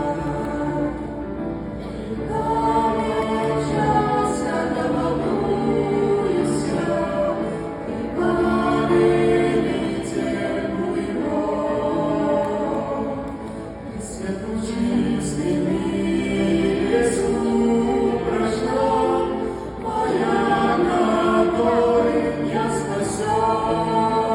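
Choir singing a Christian gospel-style song, several voices holding and moving through sung lines without a break.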